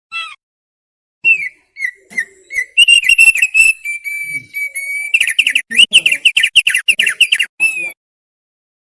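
Thick-billed heleia (opior paruh tebal) singing. A short opening note is followed by a string of varied clear whistles with one held note in the middle, and the song ends in a fast run of rapid, repeated notes.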